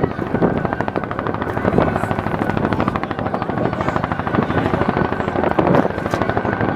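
Bell UH-1H Huey helicopter flying, its two-blade main rotor beating in a fast, steady chop with a steady turbine whine above it.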